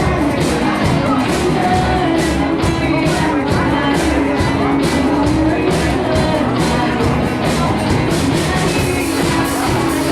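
Indie rock band playing live: drum kit, two electric guitars, bass and keyboard, with steady drum hits.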